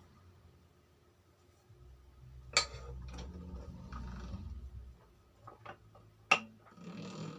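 Metal tools and parts clinking and knocking on a workbench during cylinder-block boring work. There are two sharp metallic knocks, about two and a half and six seconds in, and a low hum between about two and five seconds.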